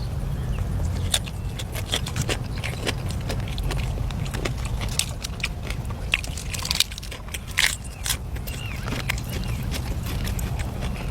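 Food being bitten and chewed close to the microphone: irregular short, crisp crunching clicks over a steady low rumble.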